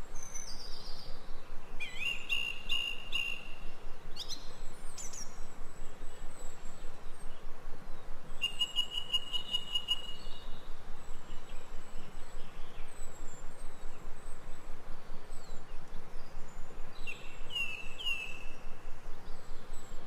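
Small birds calling in woodland: a few short trills and quick whistled sweeps, the strongest trills about two seconds in and again around eight and seventeen seconds, over a steady background hiss.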